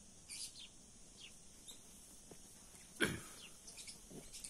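Scattered faint, short, high bird chirps, with one sudden sharp sound about three seconds in.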